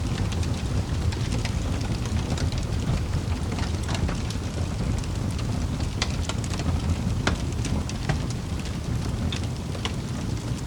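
Wood fire burning in a fireplace: a steady low rushing of flames with scattered sharp crackles and pops.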